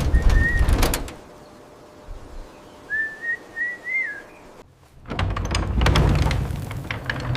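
A heavy thud with a rumbling clatter, then a short wavering whistle like a bird call, then a loud rumbling, rattling scrape about five seconds in.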